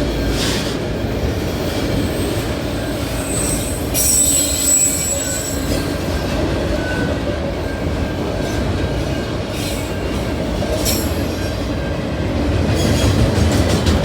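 Freight train cars rolling past with a steady rumble of steel wheels on rail. A high wheel squeal starts about four seconds in and lasts around two seconds, and there are scattered sharp clicks as wheels pass over the rail joints.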